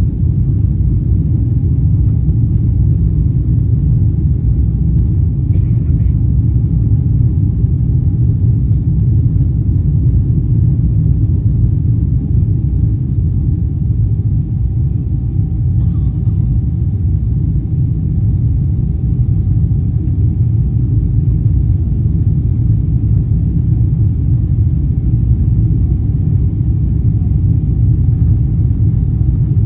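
Jet airliner cabin noise during takeoff: the engines and airflow make a loud, steady low rumble, with a faint steady whine over it.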